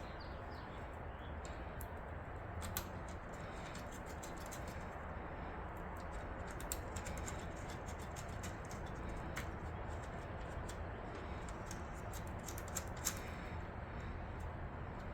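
Faint, scattered light clicks and taps of small computer parts being handled and fitted, over a steady background hiss.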